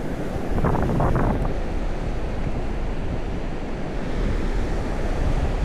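Wind buffeting the microphone over the steady wash of ocean surf, with a short louder burst of noise about a second in.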